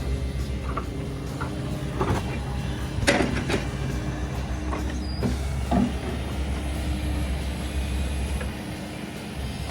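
Heavy diesel machine running steadily, with a few sharp clanks and knocks in the first six seconds; the low engine drone drops away about eight and a half seconds in.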